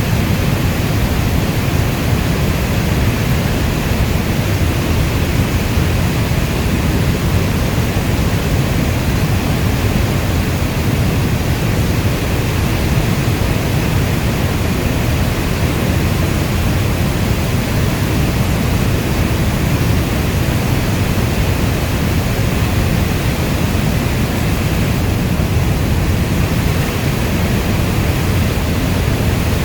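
Steady heavy rain: a dense, even wash of sound, heaviest in the low end, with no separate drops or thunder standing out.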